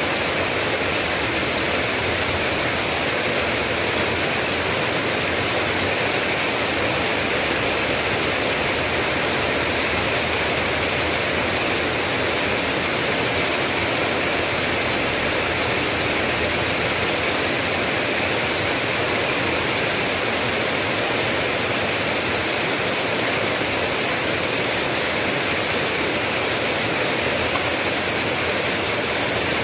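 Steady rain falling, an even, unbroken hiss with no single drops or splashes standing out.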